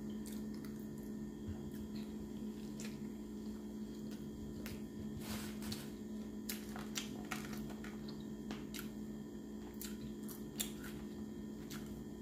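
Close-up chewing and mouth sounds of someone eating a fried chicken sandwich, with soft, scattered clicks and squishes. A steady low electrical hum runs underneath.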